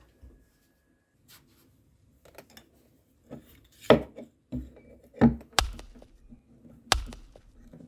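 Hands-on workshop work on hard parts: irregular sharp knocks and clicks with rubbing and scraping between them. The sharpest knocks come about four, five and a half and seven seconds in.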